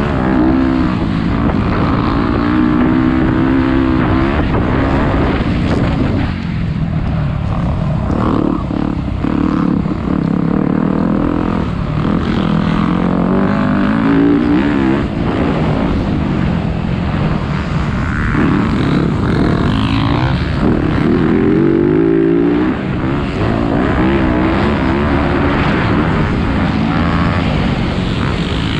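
Motocross dirt bike engine being ridden hard, its pitch repeatedly rising and falling as the throttle is opened and closed, with wind and rushing noise.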